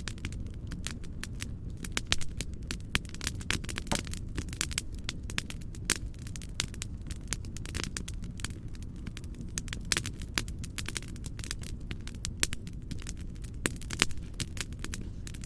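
Wood fire crackling and popping in a fireplace, with frequent sharp snaps and a few louder pops, over a steady low rumbling noise.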